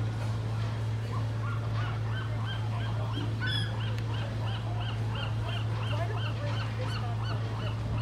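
A bird calling in a long run of short repeated notes, about three a second, starting about a second in. A steady low hum runs underneath.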